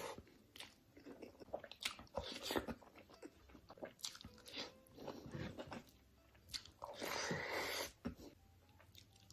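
Close-up biting and chewing of crunchy food: a string of short, sharp crunches at irregular intervals, with a denser noisy stretch lasting about a second around seven seconds in.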